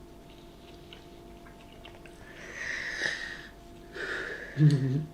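A person sniffing hard through the nose twice, the second sniff shorter, then a short, loud, low throaty sound near the end.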